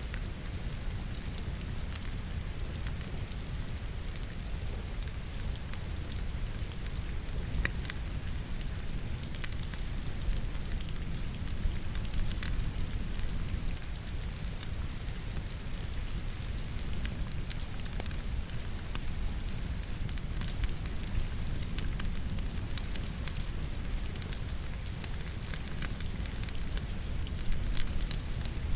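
Steady rain mixed with a wood fire burning in a fireplace, the logs giving off frequent small crackles and pops over the even hiss of the rain.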